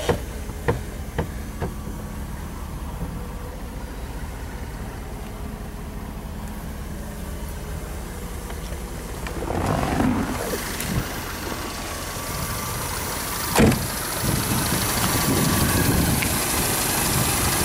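1989 Rolls-Royce Corniche II's 6.75-litre V8 idling steadily, heard at first from inside the cabin with a few light clicks near the start. Handling noise follows about ten seconds in, then one sharp thump a little later, after which the engine is heard louder and hissier from the open engine bay.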